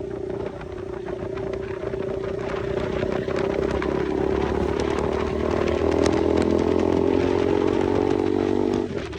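KTM motorcycle with a newly fitted aftermarket exhaust silencer, being ridden. The engine note holds steady, climbs gradually over the second half, then drops suddenly near the end.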